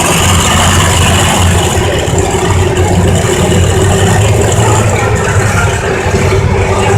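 Alcohol-fuelled International 5288 pulling tractor's engine running loud and steady under load during a pull down the track.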